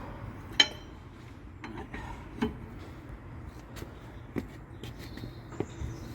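Metal wheel brace clinking against the wheel nuts as they are loosened: one sharp loud clink about half a second in, then a few fainter taps and clicks, over a steady low background rumble.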